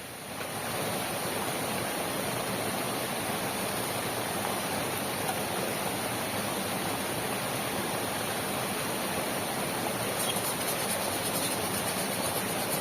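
Heavy rain falling steadily, an even rushing hiss that swells up right at the start and then holds level.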